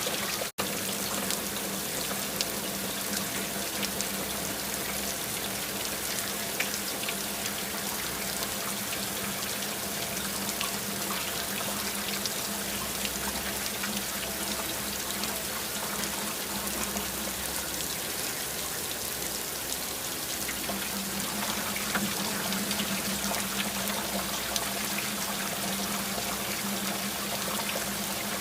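Steady rain falling, a dense patter of drops with water trickling and running, over a low steady hum that grows stronger in the second half. The sound cuts out for an instant about half a second in.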